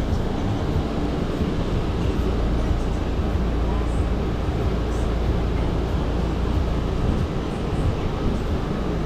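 Steady low mechanical drone with a fan-like rush, typical of a food truck's running equipment such as the generator and exhaust hood fans.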